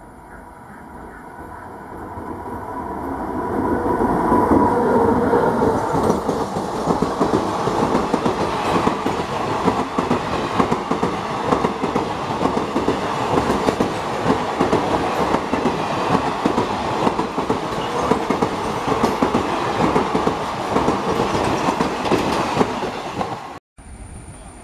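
Electric-hauled express passenger train approaching and running through at speed. The sound builds over the first four seconds as the locomotive nears, then the coaches pass with a steady, rapid clatter of wheels over rail joints. It cuts off abruptly near the end.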